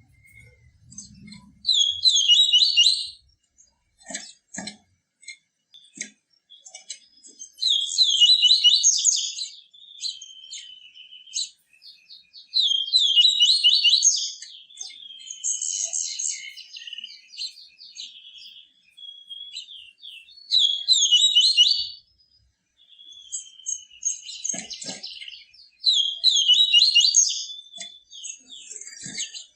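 Papa-capim (a seedeater) singing its 'tui tui viviti' song: short phrases of rapid, high notes, each about a second and a half long, repeated every few seconds with softer twitters between them.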